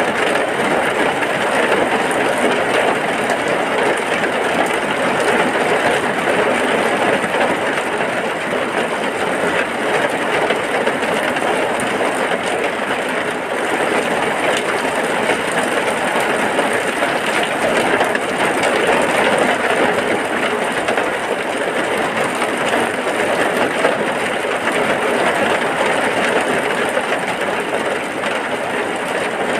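Heavy rain falling steadily: a dense, even rush of noise with no let-up.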